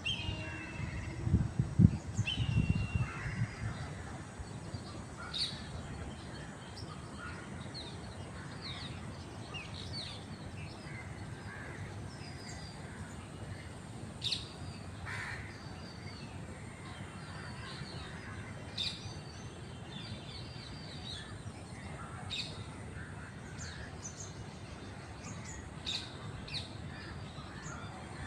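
Red-whiskered bulbuls calling, many short chirps and whistled notes scattered throughout, with other birds calling in the background. A low rumble between about one and three seconds in is the loudest sound.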